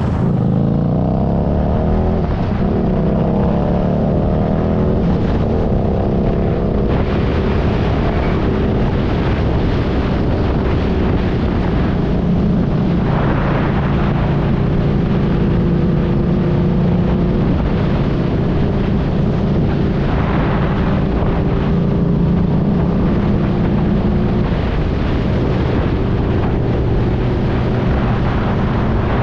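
Motorcycle engine running under way, its pitch climbing and dropping over the first few seconds as it changes speed, then holding steady at a cruise, over a constant rush of wind and road noise.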